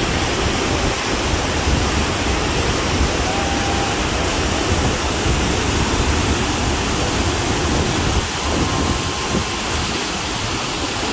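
Steady, loud rush of a large waterfall: the cascading water of the Cascata delle Marmore, a man-made falls whose flow is released through sluices.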